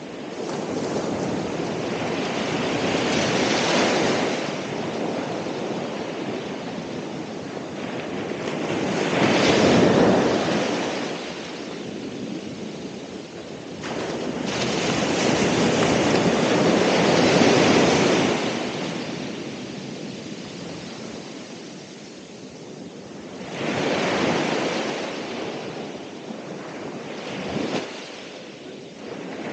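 Ocean waves breaking and washing up the shore, a rushing surge that swells and falls away about every six or seven seconds, with a quieter hiss of water between.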